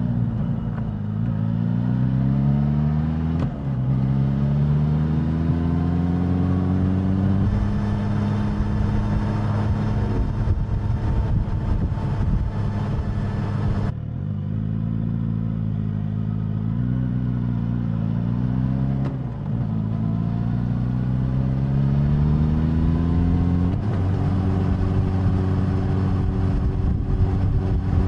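Suzuki GSX-S1000 inline-four engine and exhaust under way: the engine note climbs several times as the bike accelerates, dipping briefly at each upshift, and holds steady in between at cruising speed. A low wind rumble runs underneath.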